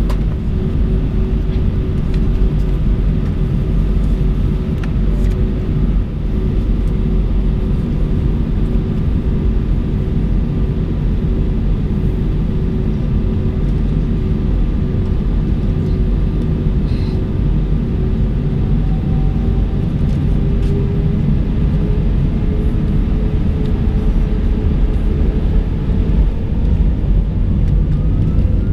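Airliner cabin noise inside an Airbus A319: a steady loud rumble with a whine from the jet engines. The whine starts rising in pitch about two-thirds of the way in as the engines power up.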